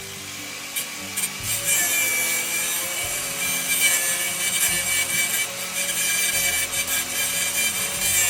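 A tool scraping or sanding, over a steady high whine.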